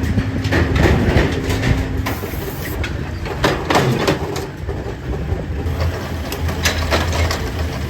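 Factory machinery running with a steady low hum, overlaid by irregular metal clanks and knocks.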